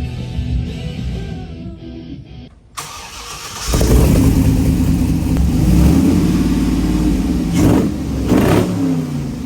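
Background music, then about three seconds in a cammed 6.0 LS V8 through Borla single-chamber mufflers starts up and runs loudly, revved twice near the end.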